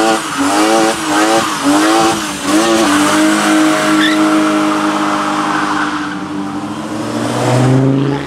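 V8 muscle car engine blipped in quick repeated revs, about three every two seconds, then held at steady high revs with its pitch slowly sagging, over the squeal of spinning tyres in a burnout.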